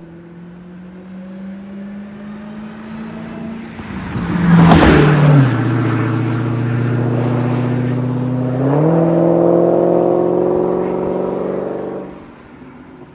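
Dodge Challenger SRT Hellcat's supercharged 6.2-litre Hemi V8 passing close by about five seconds in, a burst of rushing noise and a drop in pitch as it goes by. The engine then runs on steadily, climbs in pitch near nine seconds as it accelerates, and fades out near the end.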